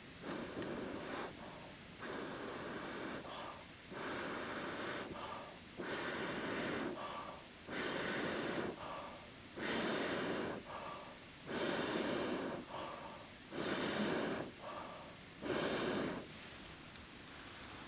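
A person breathing heavily and evenly through the mouth and nose, a strong breath about every two seconds with a weaker one between, growing louder toward the end.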